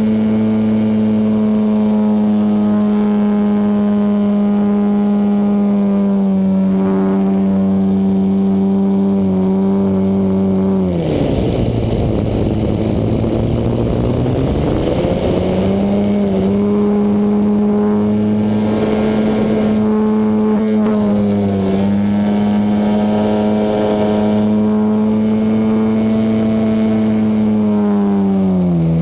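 DA-100 twin-cylinder two-stroke gasoline engine of a large RC Extra 260 aeroplane, heard from on board, running steadily at high throttle. About eleven seconds in, the throttle is cut and the pitch falls sharply. A few seconds later it climbs back and holds, then drops again near the end.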